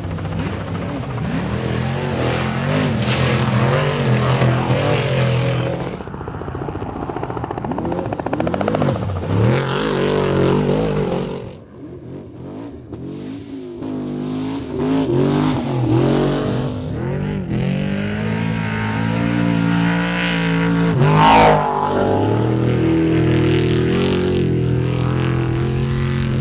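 Off-road race trucks' engines revving hard and passing, their pitch rising and falling as they accelerate and back off. The sound jumps abruptly several times, with a dip about halfway through, as one short clip cuts to the next.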